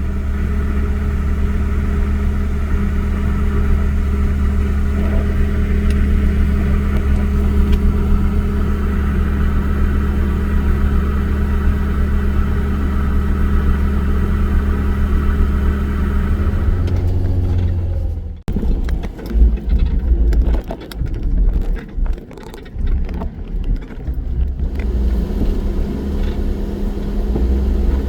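Off-road vehicle's engine running steadily under way with a constant low drone. About eighteen seconds in the sound breaks off sharply, and several seconds of uneven low thumps follow before the steady drone returns.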